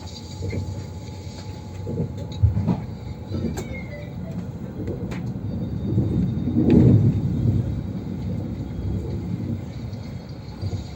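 AVE high-speed train running: a steady low rumble with a few short knocks, swelling louder for a second or two a little past the middle.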